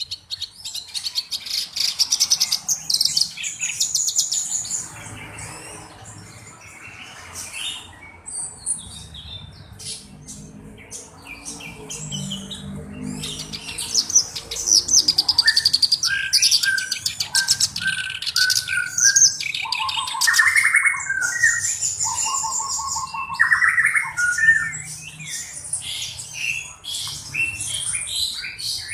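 A black-browed reed warbler singing a long, varied song of fast, harsh chattering phrases, with a run of lower, clearer notes about halfway through. The song is full and continuous, the kind of song kept as a master recording to teach other songbirds.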